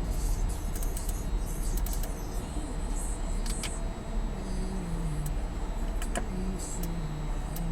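Audi S4's supercharged 3.0-litre V6 idling, a steady low rumble heard inside the cabin, with several short light clicks over it.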